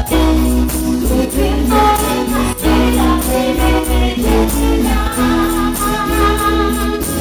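Live cumbia band playing an instrumental passage: electronic keyboard melody over steady bass and a regular percussion beat.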